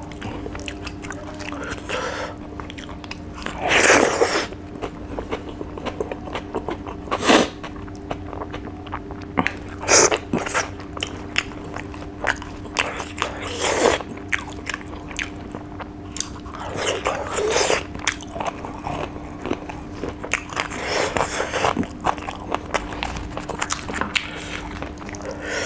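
Close-miked chewing and mouth sounds of a man eating rice and fish with his fingers. Louder bursts come every three to four seconds over a constant patter of small smacks and clicks.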